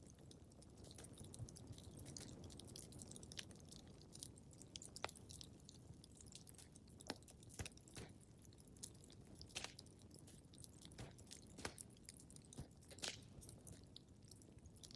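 Wood fire crackling in a fireplace: quiet, irregular pops and snaps over a soft low rumble of the flames.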